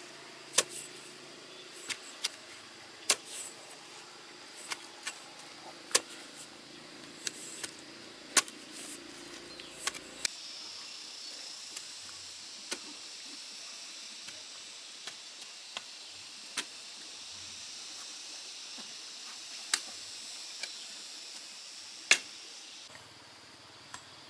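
Sharp knocks at irregular intervals, roughly one every second or two, over a steady high hiss that changes about ten seconds in.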